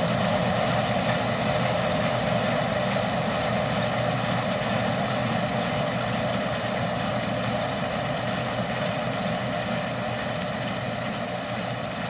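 Deutz-Allis Gleaner R60 combine running steadily while harvesting wheat, its engine and threshing machinery making a continuous drone that slowly grows quieter.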